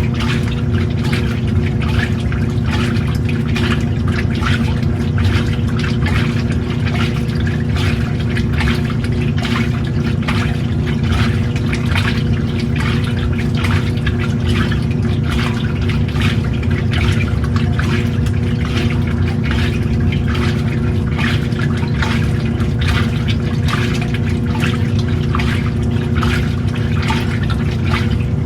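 Washing machine running with a load of water: a steady motor hum under continuous splashing and sloshing of water in the tub.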